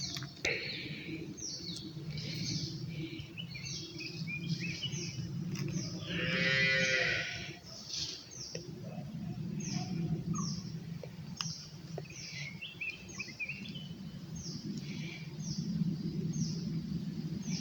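A goat bleats once, loudly, for about a second and a half near the middle. Through most of the rest a bird repeats short, falling chirps roughly twice a second over a steady low background noise.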